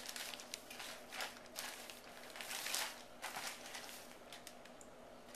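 Plastic zip-top bag rustling and crinkling in short, irregular bursts, with a few light clicks, as flour-coated chicken cutlets are taken out of it by hand.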